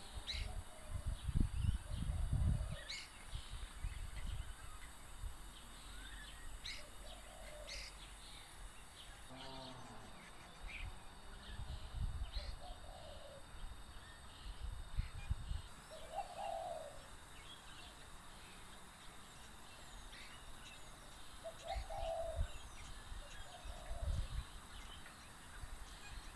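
Starlings calling: scattered short, sharp whistles and chirps, with a few lower, rougher calls among them.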